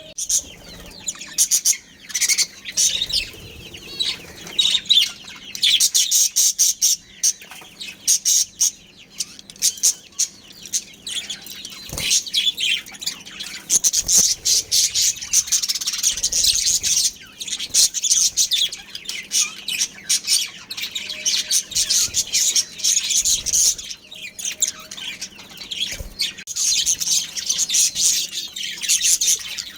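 Several budgerigars chirping and chattering continuously, a dense run of quick, high warbling chirps with a few sharp clicks in between.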